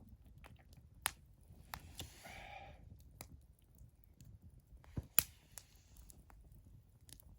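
Wood fire crackling, with sharp pops at uneven intervals, the loudest about five seconds in, over a low steady rumble.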